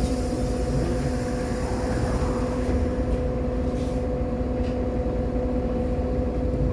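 Irisbus Agora L city bus running, a steady drone with a constant two-note hum and no changes in speed or pitch.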